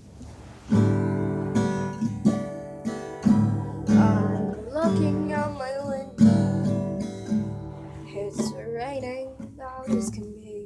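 Acoustic guitar strumming chords, starting about a second in, with a voice singing a wordless melody over it in the middle and again near the end.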